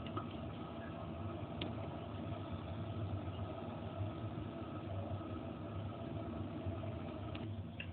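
A steady, low mechanical hum with a few faint clicks.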